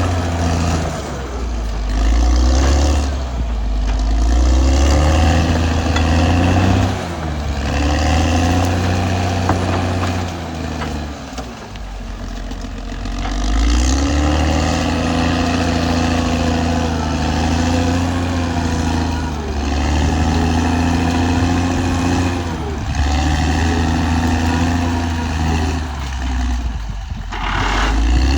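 Caterpillar D6R XL bulldozer's diesel engine working under heavy load, its note sagging and recovering several times as it pushes and revs back up.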